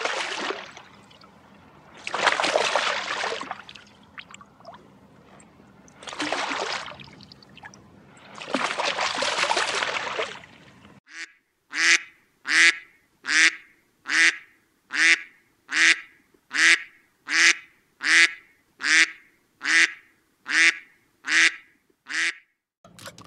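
Water splashing in three bursts as catfish thrash at a pond surface, followed after a sudden cut by a long run of duck calls, evenly spaced at a little more than one a second.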